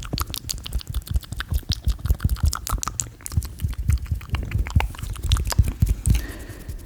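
Close-miked ASMR mouth and hand sounds: a fast, dense run of wet clicks and pops, several a second, with soft low thumps beneath.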